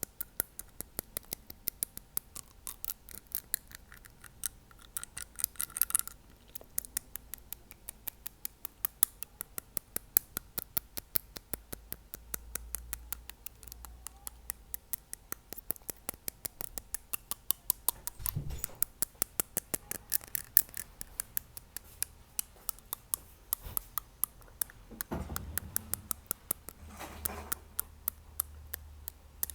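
Fingernail tapping on teeth, close to the microphone: a fast, steady run of sharp clicks, several a second, with no pauses.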